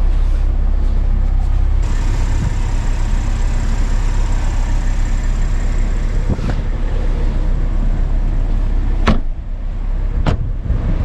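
Steady car rumble with a rushing hiss that sets in about two seconds in, and a few sharp knocks in the second half.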